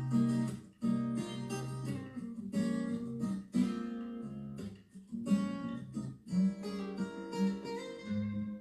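Acoustic guitar strumming chords, struck again and again in a loose rhythm with short breaks between phrases.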